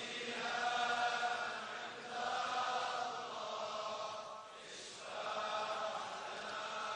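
Faint background chanting of sustained vocal notes in three phrases of about two seconds each, much quieter than the lead reciter's voice.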